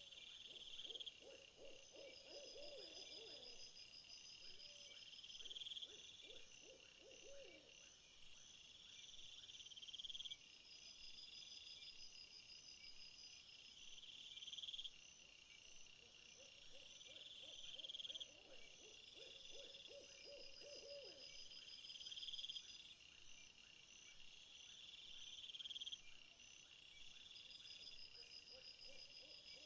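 A chorus of night insects trilling in repeated high phrases a second or two long, with a low hooting call that comes back four times.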